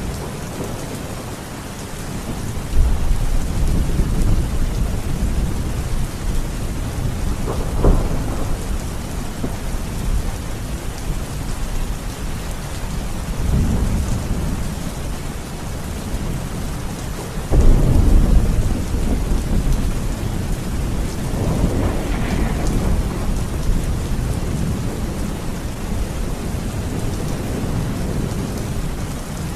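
Steady rain falling, with rolling thunder over it: several low rumbles swell and fade, with a brief sharp crack about a quarter of the way in. The loudest rumble breaks in suddenly a little past the halfway point.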